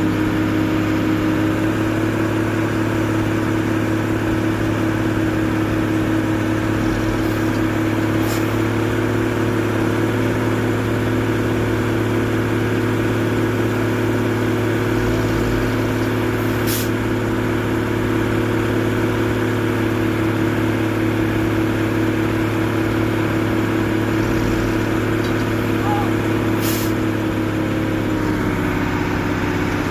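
Truck engine running steadily at a constant speed, its pitch dropping slightly near the end.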